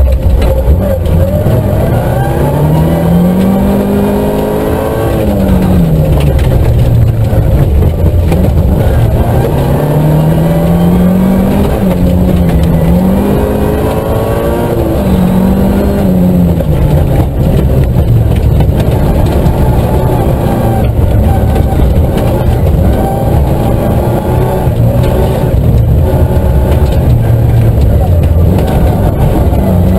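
Nissan Micra K11 rally car's engine heard from inside the cabin, revving up and down repeatedly as it is driven hard through the gears on a gravel stage. Tyres and gravel rumble under the car.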